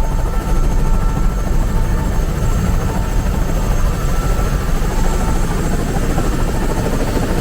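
Helicopter running steadily: a dense, continuous drone with a few faint steady whine tones above it.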